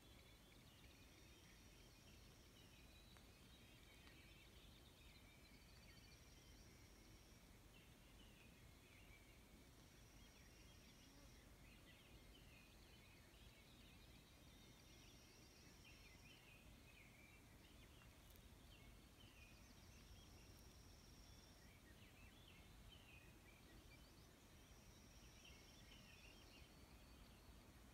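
Faint birdsong over near silence: one bird repeats a long, high, thin note about every five seconds, with other small birds chirping in between.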